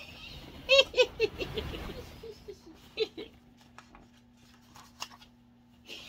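A child giggling: a run of short, high laughs about a second in, falling in pitch, then one more short laugh about three seconds in.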